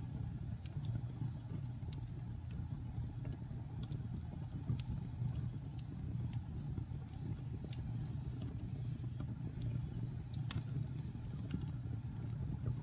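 Wood fire in a fireplace crackling: irregular sharp pops and snaps, the strongest about ten seconds in, over a steady low rumble of burning.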